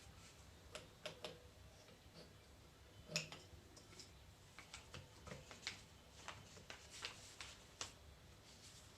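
Faint, irregular clicks and light taps of small metal parts being handled during reassembly of an R75/R80 hydraulic control valve. The loudest click comes about three seconds in.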